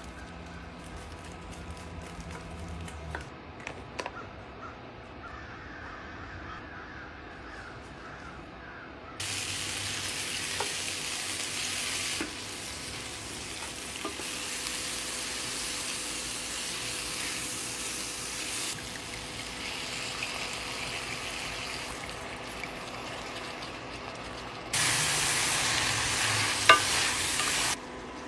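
Sliced red onions frying and sizzling in a hot cast iron skillet, stirred with a wooden spoon. The sizzle is faint at first, then comes in loud stretches that start abruptly about nine seconds in and again near the end, with a sharp click near the end; a faint steady hum runs underneath.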